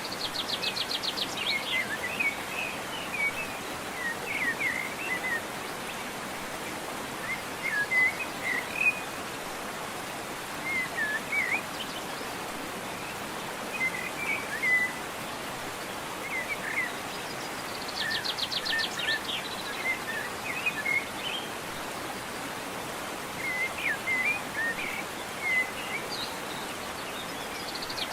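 Steady rush of a waterfall, with birds chirping in short scattered phrases over it. A rapid high trill comes three times: near the start, about two-thirds through, and at the very end.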